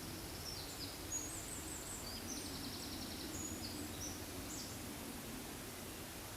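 Small songbirds singing high, quick chirps and trills over a steady forest background hiss; the song stops about four and a half seconds in.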